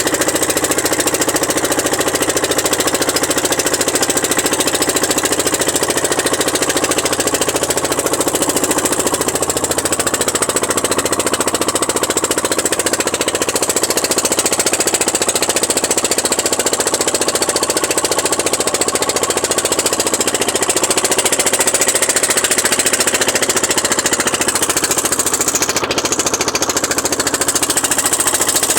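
A boat's engine running steadily and loud, with a rapid, even pulsing beat and a steady hum under it.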